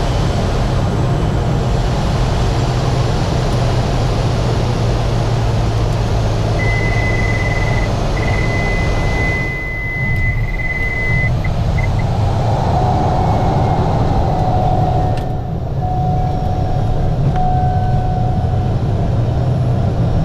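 Aircraft engine and cabin noise heard from inside, a loud steady drone with a low hum. A high steady tone sounds on and off for several seconds, then a lower tone follows, and the noise dips briefly twice.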